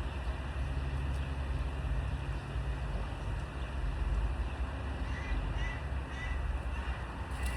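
Steady low rumble of wind on the microphone, with several short, high bird calls from about five seconds in.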